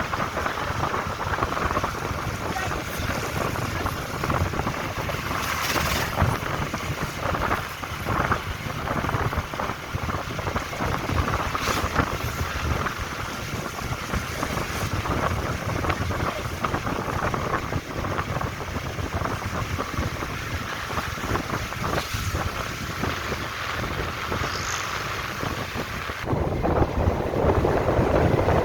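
Wind buffeting the microphone over the steady rumble of a moving vehicle on the road, with occasional knocks. About 26 seconds in, the rushing grows louder and duller.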